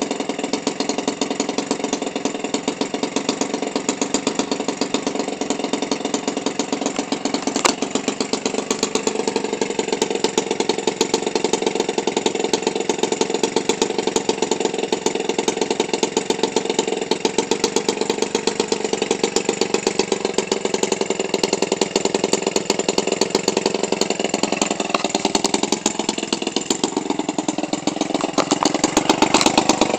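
Toro 28cc two-stroke string-trimmer engine, converted for radio-control airplane use, idling steadily at about 1500 RPM with a fast, even firing beat. It gets a little louder over the last couple of seconds.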